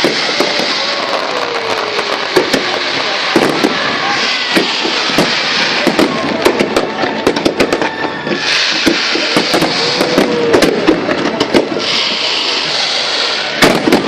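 Aerial fireworks display going off in a continuous barrage: dense crackling with many sharp pops and bangs packed closely together over a steady hiss.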